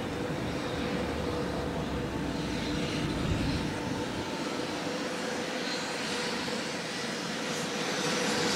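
Electric freight locomotive hauling a container train past, a steady rumble with a constant hum, growing louder near the end.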